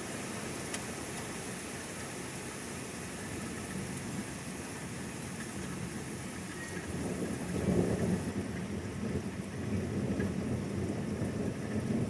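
Steady rain hiss, with a low rumble of thunder building about seven seconds in, loudest about a second later, then rumbling on unevenly.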